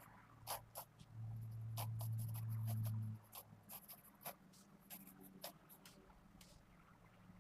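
A Pentel GraphGear 500 mechanical pencil with 0.5 mm 2B lead sketching on paper: a run of short, quick scratchy strokes. About a second in, a low steady hum comes in and lasts about two seconds.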